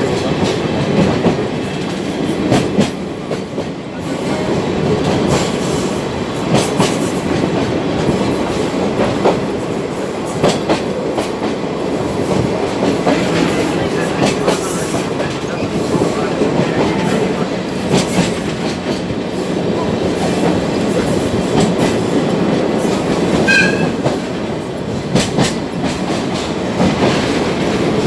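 Sagano trolley train rolling along the track, heard from aboard: a steady rumble of wheels on rails with irregular clicks, and a brief high squeak about three-quarters of the way through.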